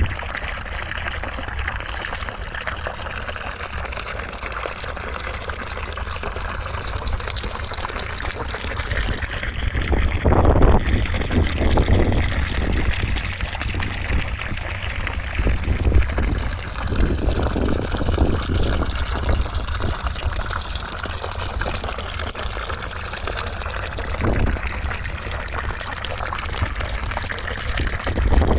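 Steady white-noise rush with a gushing, running-water character, its tone drifting slowly, with brief louder swells about ten seconds in and again around sixteen seconds.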